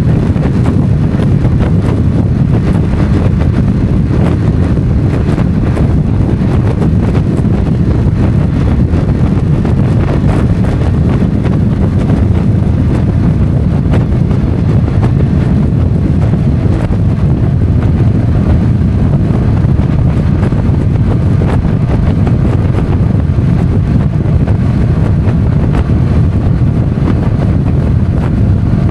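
Motorcycle under way at road speed: heavy wind rushing over the microphone with the engine running steadily beneath it.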